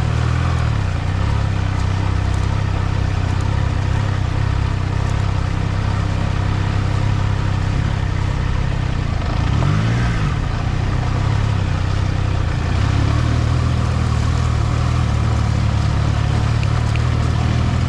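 Triumph Trident 660's inline three-cylinder engine running steadily at low revs as the motorcycle is ridden slowly, with one brief rise and fall in revs about ten seconds in.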